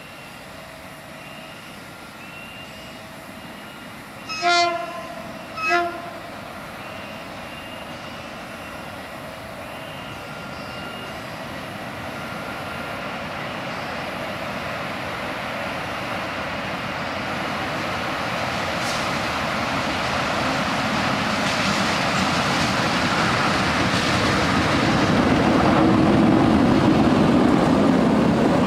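Diesel locomotive sounding its horn in two short blasts about four seconds in. Then its engine and the wheels of a long string of fuel tank wagons grow steadily louder as the freight train approaches and passes close by.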